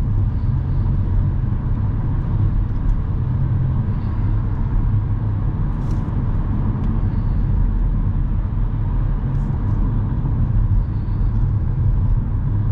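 Steady road and engine rumble heard inside a moving car's cabin, with a few faint ticks.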